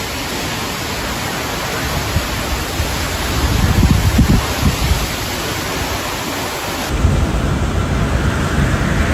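Tropical cyclone wind and heavy rain, a dense steady roar with strong gusts buffeting the microphone. The sound changes abruptly about seven seconds in, with heavier low buffeting afterwards.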